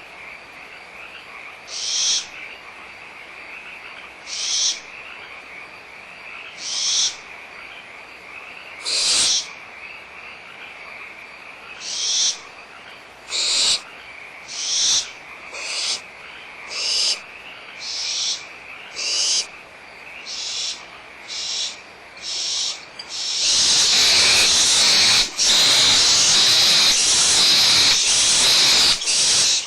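Barn owl owlets making their hissing begging calls, short rasping hisses repeated about every one to two seconds and coming faster. About 23 seconds in, they break into continuous loud hissing. This fits the excitement and squabbling over leftover food.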